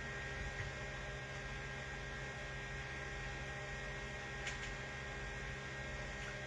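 Steady electrical mains hum with background hiss, and a faint click about four and a half seconds in.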